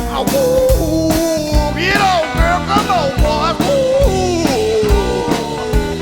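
A blues band playing live: drums keep a steady beat of about two hits a second under a lead line of sliding, bending notes.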